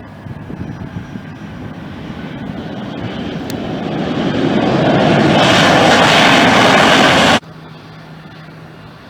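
Jet airliner passing close by, its engine noise growing steadily louder for about five seconds, then cutting off suddenly about seven seconds in.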